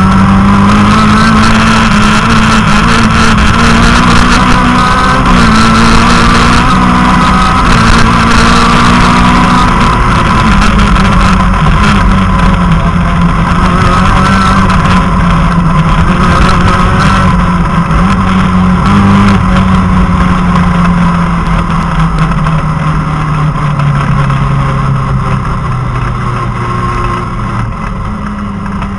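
Citroën Saxo rally car's engine heard from inside the cabin, running hard at speed with short dips in pitch at gear changes. Over the last several seconds the revs fall gradually and the sound gets quieter.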